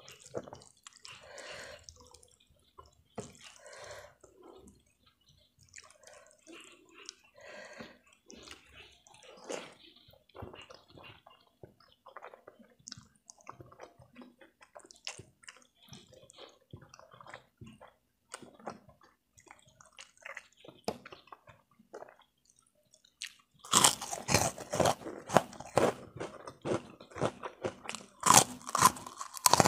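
Close-miked eating: soft, wet chewing and slurping of spicy Indomie instant noodles. About 23 seconds in, loud, sharp crunching starts as a puffy white cracker is bitten and chewed.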